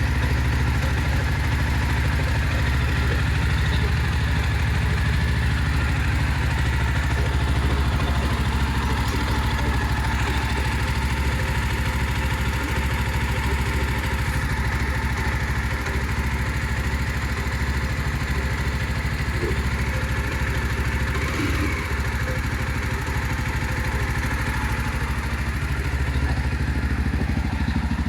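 Jawa 42 2.1 motorcycle's single-cylinder engine running steadily at an even speed.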